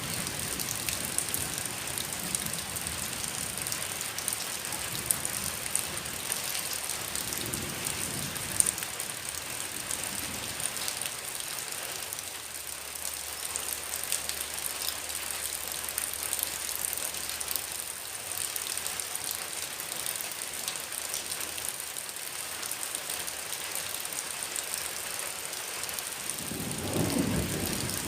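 Heavy rain falling steadily, an even hiss of drops, with a low rumble swelling near the end.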